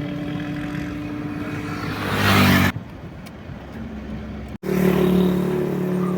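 An engine running steadily, with a louder noisy surge about two and a half seconds in that stops abruptly; after a brief dropout the engine is heard running steadily again.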